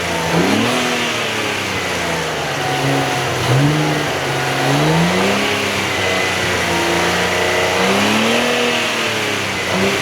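Nissan Z Nismo's twin-turbo V6, fitted with Nismo cold air intakes and a Nismo track exhaust, pulling under acceleration: the engine note climbs and drops in pitch several times as it revs up and shifts, over a steady rushing noise. The sound cuts off suddenly at the very end.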